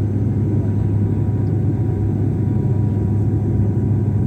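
Aircraft noise: a steady low hum with a rumble beneath it, unchanging throughout.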